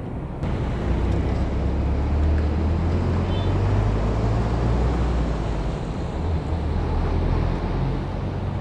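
A vehicle engine running nearby: a steady low rumble with a hum that swells about half a second in and holds.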